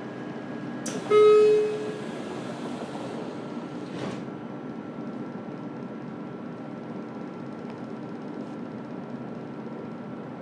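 Steady running noise inside a JR Kyushu 303 series electric train car, with one short, loud horn toot about a second in.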